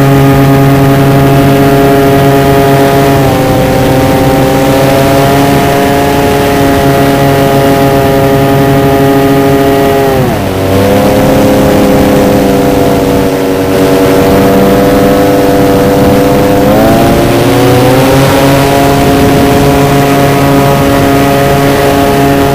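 RC model Cessna's motor and propeller running steadily, heard close from the on-board camera; the pitch eases down slightly about three seconds in, drops sharply as the throttle is pulled back about ten seconds in, then rises again near seventeen seconds as power comes back on.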